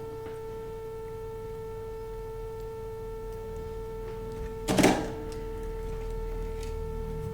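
A steady electrical whine, one constant pitch, runs throughout. A single sharp knock, like a tool or part being set down, comes about five seconds in.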